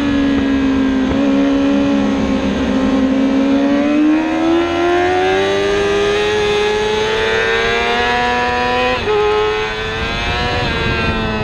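Racing sportbike engine heard onboard: the revs fall at first, then climb steadily under hard acceleration, with a quick drop in pitch about nine seconds in as it shifts up a gear before climbing again.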